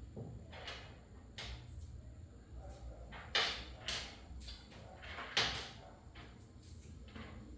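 Irregular knocks and clacks of hard objects being handled, with two sharper knocks a few seconds apart.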